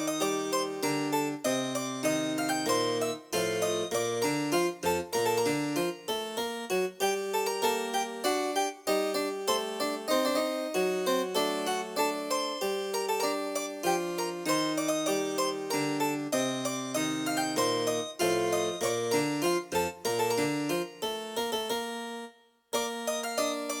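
Casio CDP-S360 digital piano playing a harpsichord preset: a continuous passage of quick, crisply plucked notes in several voices. It breaks off for a moment near the end, then the playing resumes.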